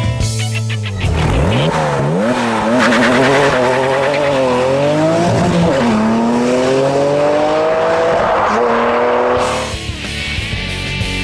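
RUF R Turbo's twin-turbo flat-six accelerating hard, its pitch climbing and dropping back at each gear change, then cutting off suddenly near the end. Background music plays under it.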